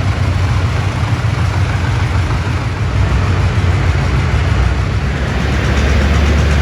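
Antique tractor engine running loud and steady, with a deep drone. About five and a half seconds in, the drone settles into a steadier, lower hum.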